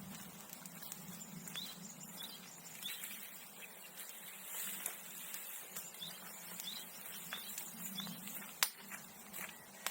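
Faint short bird chirps, scattered through the quiet, with a few small crackles and one sharp click near the end.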